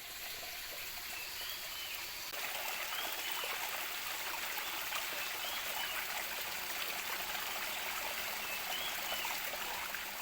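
Steady running water in the forest, like a stream trickling, growing a little louder about two seconds in, with a few faint high chirps now and then.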